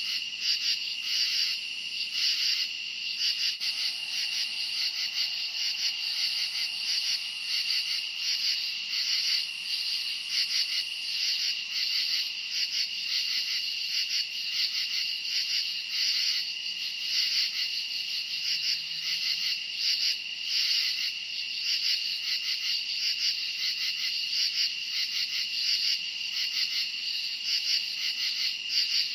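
Night chorus of crickets chirping: a continuous high trill with rapid, evenly repeating pulses layered over it.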